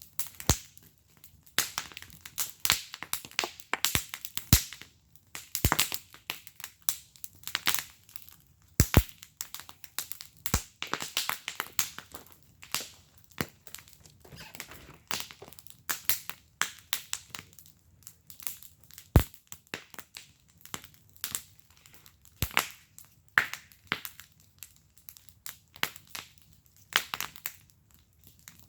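Wood fire burning in a fire pit, crackling with irregular sharp pops and snaps several times a second, a few louder pops standing out.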